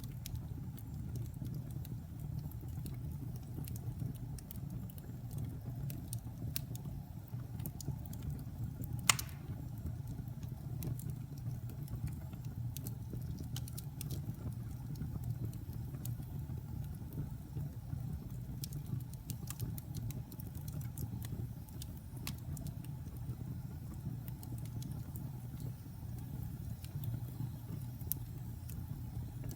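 Wood fire burning in a fireplace, the logs crackling with scattered small snaps over a steady low rumble of the flames, and one sharp, louder pop about nine seconds in.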